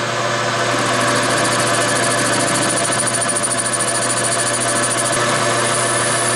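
Metalworking lathe running steadily, its spindle and motor humming, as a cutting tool trims the upset weld flash off a friction-welded 4130 steel tube. A higher cutting noise rides over the hum from about a second in until about five seconds in.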